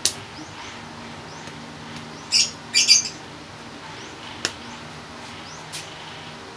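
Birds chirping: two short, loud squawks about two and a half seconds in, with faint short chirps around them. A sharp click at the start and another about four and a half seconds in.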